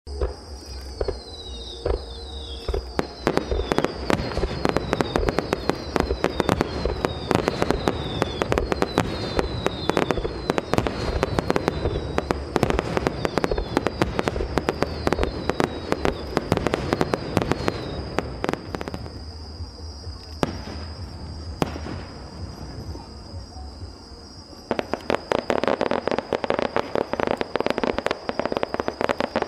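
Fireworks display: a dense, rapid run of crackling and popping bursts that eases off about two-thirds of the way through and then picks up again near the end. A steady high insect chirring runs underneath.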